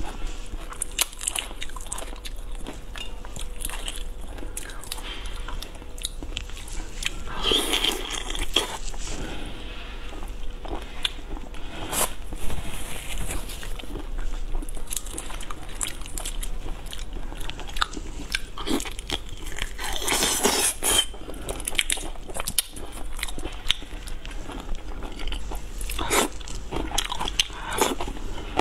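Close-miked eating: chewing and crunching on shell-on seafood such as shrimp, with many sharp cracks and clicks and a few louder crunching spells.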